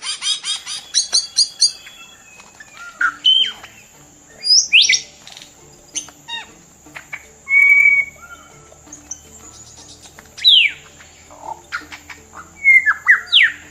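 Bird calls: a quick run of repeated chirps near the start, then assorted whistles and sharp falling notes, over soft background music.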